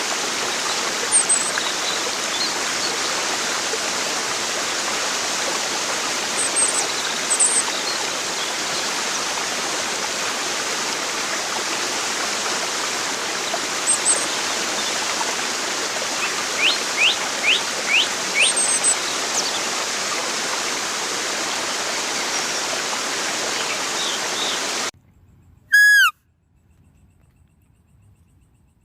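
Steady rush of flowing water with scattered high bird chirps and a short run of quick rising calls. The water sound cuts off abruptly, and a single loud falling whistle-like call follows.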